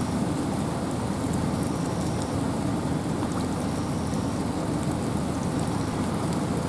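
Steady wind and rain in a forest: a continuous, even rush of noise, heaviest in the low range, with scattered light ticks of raindrops.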